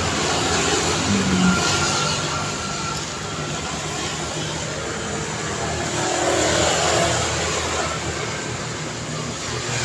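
Road traffic passing continuously, with vehicles swelling past about a second in and again around six to seven seconds in.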